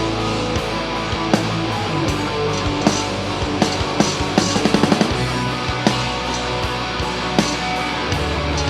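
Heavy metal band playing live, an instrumental passage of electric guitars over drums, with a fast run of drum hits about halfway through.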